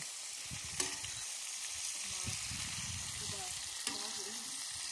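Meat and vegetables sizzling in oil on a large steel pan made from a plough disc, set over a wood fire: a steady frying hiss. Two short sharp clicks come about a second in and again near four seconds.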